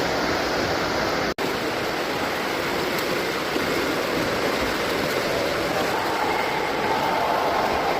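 Steady rushing noise of swimming-pool water, with a brief dropout a little over a second in.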